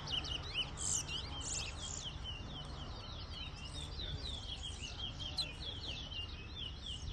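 Towa-towa finches singing in a song race: a dense stream of quick, sharp, high chirping notes, over and over, with no break.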